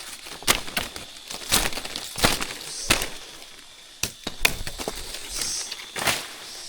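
A series of sharp, irregular cracks and knocks, about eight or nine in a few seconds.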